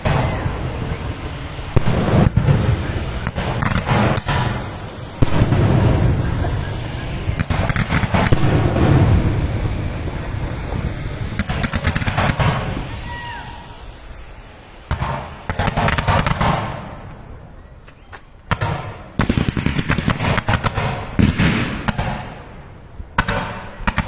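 Fireworks going off in a series of sudden booming bangs, each with crackle that dies away. A new burst comes every second or few seconds, with a couple of short lulls in the second half.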